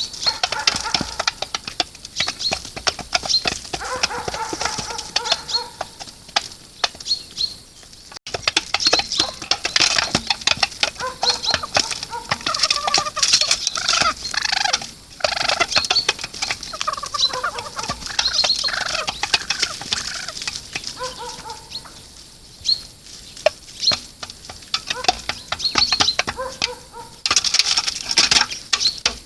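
Pheasants feeding, with repeated clucking calls, pecking clicks and some wing flapping, mixed with the short high chirps of small birds.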